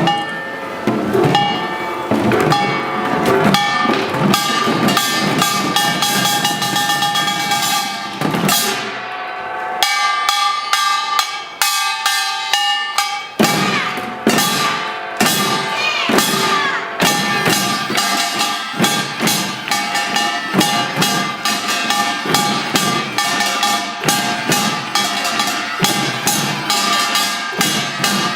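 Children's samulnori ensemble playing: kkwaenggwari small gongs clanging over drum strokes in a fast, steady beat. For a few seconds in the middle the drums drop out and the gongs carry on alone before the drums come back in.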